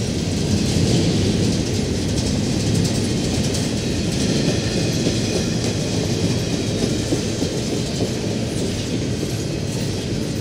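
The cars of an intermodal freight train rolling past: steel wheels on rail make a steady, loud rumble that doesn't let up.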